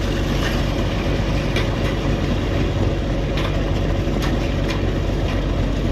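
An engine or motor running steadily with a low hum, with a few faint clicks scattered through.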